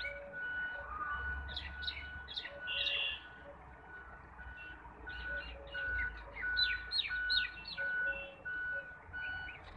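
Small birds chirping: quick runs of short, sharp, falling chirps, with a steady high note repeated about twice a second behind them.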